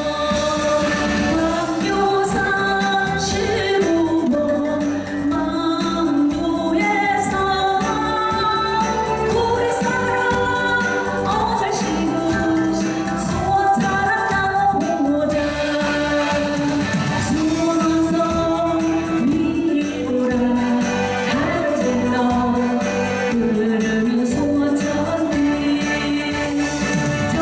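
A female singer sings a Korean trot song live over a backing track, with a melody that bends and holds notes throughout.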